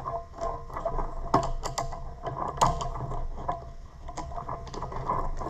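Irregular small clicks, taps and light metallic clatter of hand work on a garden tractor's starter solenoid as it is unfastened and pulled off.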